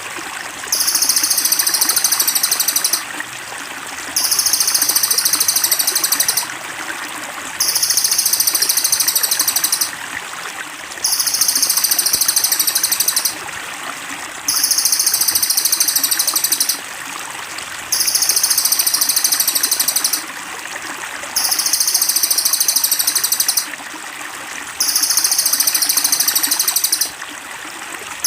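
Cililin songbird masteran call: a high-pitched, rapid trilled phrase of about two seconds, repeated over and over at an even pace with short pauses, like a looped recording. Steady trickling water runs underneath.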